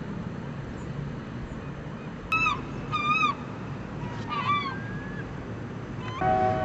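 A few short bird calls over a steady low rumble. Near the end a steady horn-like whistle starts, the warning signal before the dynamite blast.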